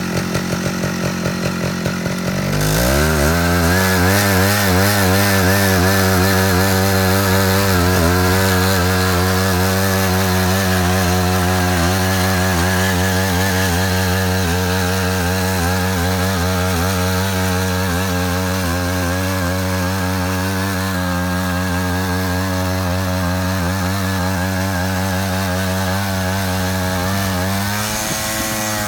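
Small engine of a Matsuda walk-behind power tiller idling with distinct firing pulses, then throttled up about two and a half seconds in to run steadily at high revs. Near the end the revs sag briefly and pick up again.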